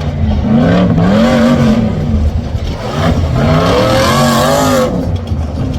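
Rough-truck engine revving hard and repeatedly, its pitch rising and falling several times as the throttle is worked over a rough dirt track, easing off near the end.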